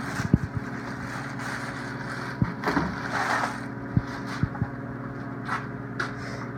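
A steady low hum, like a vehicle engine idling, with about six light knocks and clicks of tools or parts being handled and a brief rustle around the middle.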